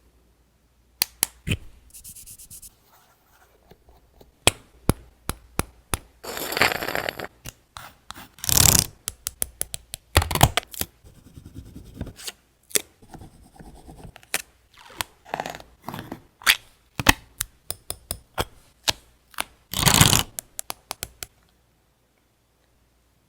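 Paper and craft tools being handled on a desk: many sharp clicks and taps, with several longer rustles and scrapes of paper, stopping about two seconds before the end.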